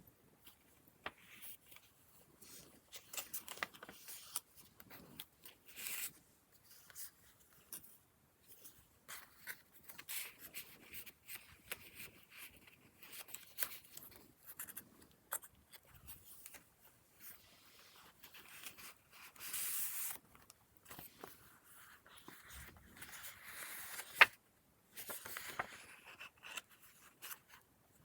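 Paper pages of a handmade junk journal being turned and handled: irregular rustling and scraping with light taps, and one sharp click about three-quarters of the way through.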